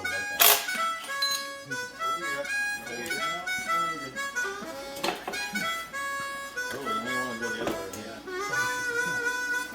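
Background music led by a harmonica playing held notes that move from pitch to pitch, with a sharp click about half a second in.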